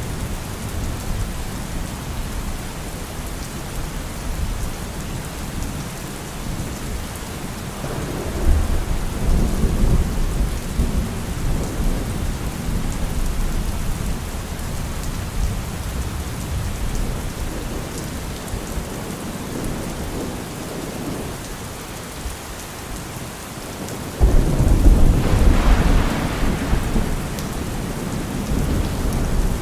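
Heavy rain falling steadily, with rolls of thunder: a rumble builds about 8 seconds in, and a louder, sudden thunderclap hits a little before the end and rumbles on for a few seconds.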